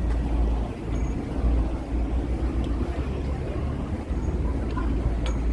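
Evening street ambience: a steady low rumble of traffic with a deep fluttering low end, and a faint click near the end.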